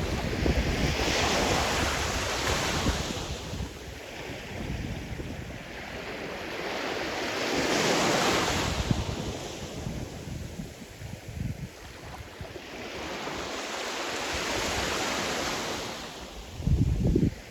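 Sea surf: waves breaking and washing up, swelling and fading about every six or seven seconds. Wind buffets the microphone in low rumbling gusts, loudest near the end.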